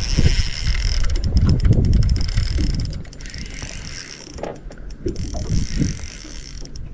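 Fishing reel being wound, a fast ratcheting whir of fine clicks, with rumbling handling noise that is louder in the first three seconds.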